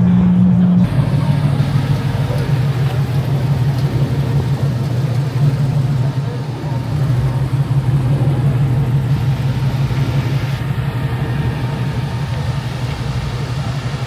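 A car engine running with a steady low rumble, with voices in the background.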